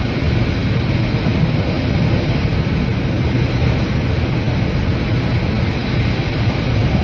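Steady, loud roar of storm noise, wind and rough sea rushing without letup and with no separate crashes or knocks.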